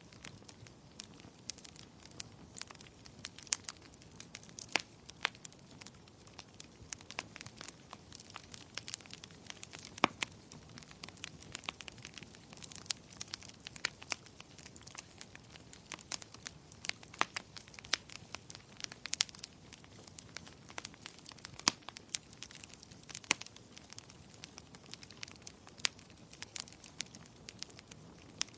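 Wood fire burning in a fireplace, crackling with irregular sharp pops, several a second and some much louder than the rest, over a faint steady hiss.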